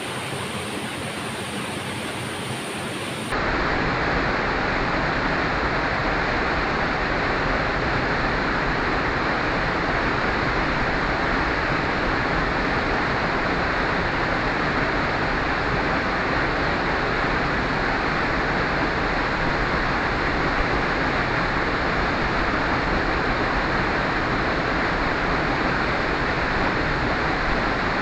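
Waterfall rushing with a steady, dense roar of falling water. The sound steps up louder about three seconds in.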